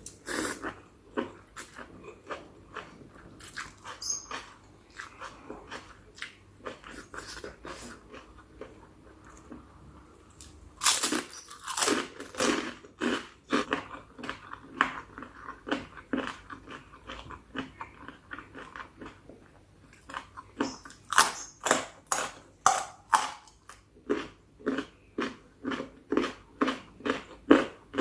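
Close-miked chewing and crunching of chicken feet spicy salad: wet bites and crunches, sparse and quieter at first, then louder and steadier, about two chews a second, from roughly a third of the way in.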